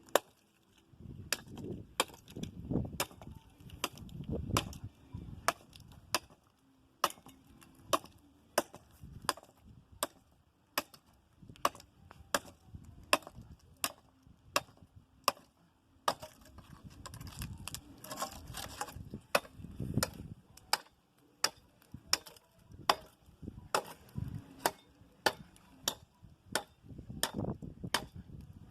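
Hardwood angico branch being chopped: repeated sharp chopping strikes into the wood, about one or two a second, irregularly spaced.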